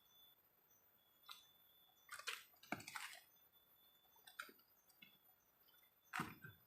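Near silence with a few faint, short clicks and scrapes, the busiest stretch about two to three seconds in and another near the end.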